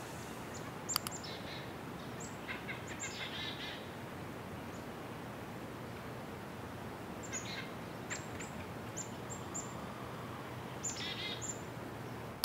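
Small birds chirping over a steady background hiss. The calls are short and high and drop quickly in pitch; they come in scattered clusters, and a few have a fast trill.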